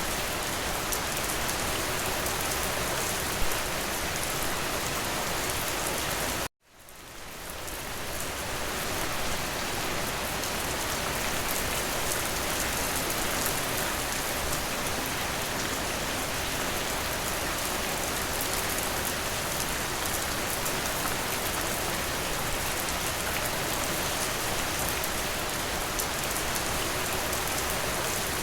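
Steady rain hitting a window, an even hiss of many drops. About six seconds in it cuts out abruptly to silence and fades back in over about two seconds.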